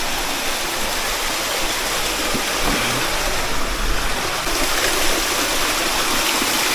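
Stream water rushing in a steady, even hiss.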